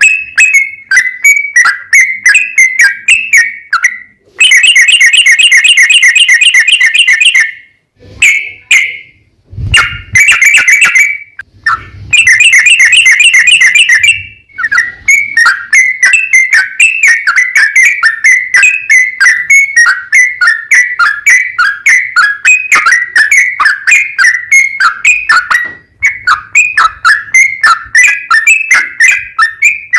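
Yellow-vented bulbul (trucukan) singing: loud, rapid runs of short chattering notes repeated several times a second. Long, fast, unbroken trills, the prized long 'ropel', come about four seconds in and again about twelve seconds in.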